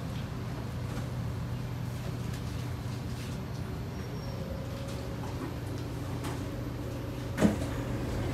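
Kawasaki C751B MRT train standing at the platform, its onboard equipment giving a steady electrical hum. Near the end comes one sharp, loud clunk from the door mechanism as the doors are released to open.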